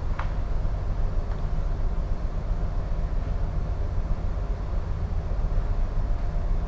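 Steady low hum and rumble of a container ship's machinery, heard on the bridge, with the main engine turning at dead slow ahead.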